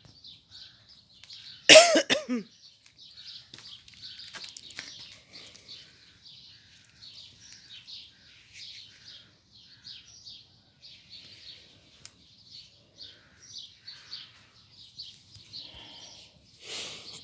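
Small songbirds chirping and twittering, high-pitched and continuous. A person gives one short, loud cough about two seconds in.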